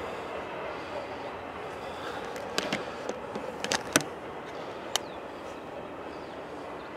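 Double-stack container freight train moving away, a steady rumble from its wheels on the rails. Several sharp clicks and knocks come in the middle few seconds, the loudest about four seconds in.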